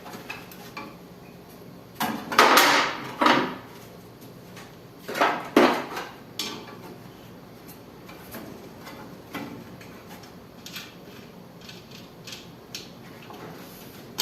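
A 13 mm spanner working on a window air conditioner's outdoor fan mounting, with metal clinks and scrapes. Two louder bursts of clatter come about two and five seconds in, then lighter clicks.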